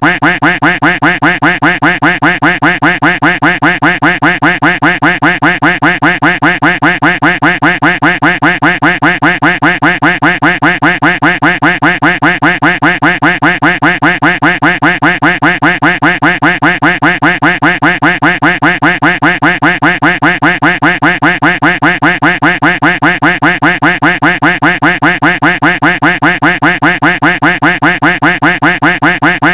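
Duck quack sound effect looped without pause: one short nasal quack repeated several times a second in an even, unchanging rhythm.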